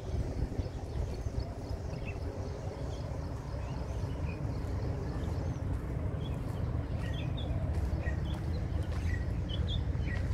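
Small birds chirping in short, scattered calls, more of them in the second half, over a steady low rumble.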